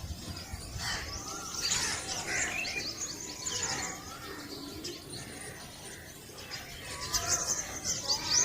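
Several birds chirping and calling together: dense, quick high-pitched chirping with lower, rising and falling call notes now and then.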